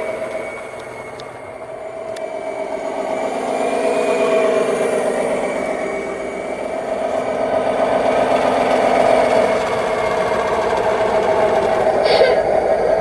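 Simulated diesel truck engine sound from an ESP32 RC sound controller, played through the scale truck's small onboard Bluetooth speaker: the engine runs steadily, its level dipping about a second in and swelling around four and nine seconds. A brief sharper sound comes in near the end.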